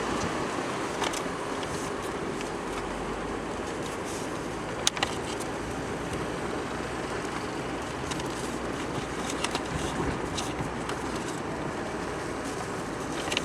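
Steady engine and tyre noise of a car driving slowly, heard from inside the car, with one sharp click about five seconds in and a few fainter clicks.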